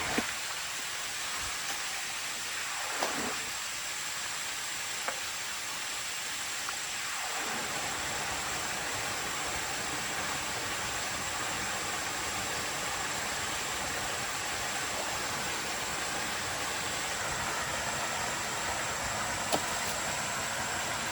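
Steady rushing hiss of water, growing fuller and deeper about seven seconds in, with a few faint clicks.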